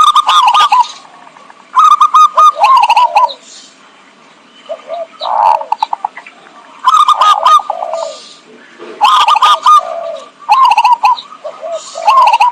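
Zebra doves cooing: repeated phrases of quick staccato coos, one every two seconds or so, loud, with crackling clicks over the loudest notes. This is the perkutut call used as a bird lure.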